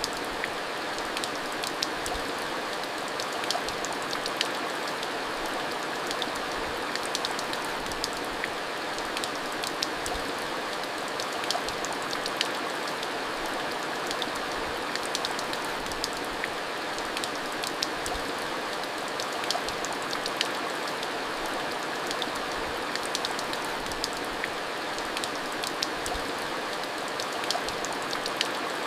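Steady rain falling: an even hiss, dotted with many sharp little ticks of drops striking.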